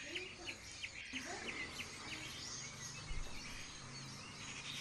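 Small birds chirping in short, high calls repeated several times a second, in the first two seconds and again near the end, over a steady background hum.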